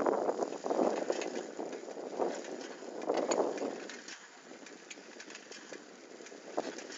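Bicycle riding along a rough forest track: surging rumbles of tyres and wind noise with light rattling ticks, easing off for a couple of seconds in the middle.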